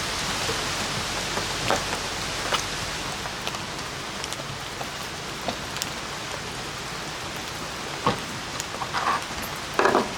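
Steady rain, with scattered louder drops striking close by.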